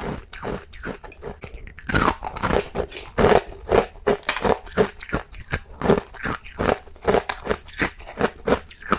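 A person biting and chewing hard ice, with crunches coming in quick succession about two a second, softer for the first second or two.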